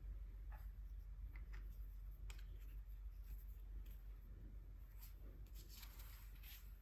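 Faint scratchy strokes of tools on paper with a few light ticks, the strokes coming thicker in the last couple of seconds: hand-swatching gouache paint.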